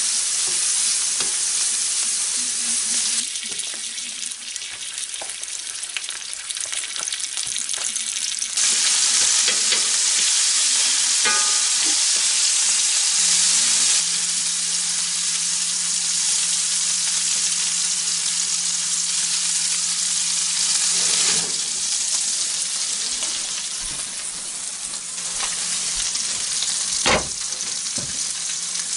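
Mushrooms and onions sizzling in a cast iron skillet on a wood stove, with a utensil stirring and scraping against the pan. A single sharp knock comes near the end.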